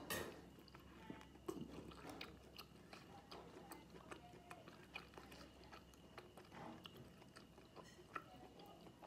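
Faint close-miked chewing of braised pig intestine with the mouth closed: irregular soft clicks of chewing throughout, with a slightly louder one right at the start.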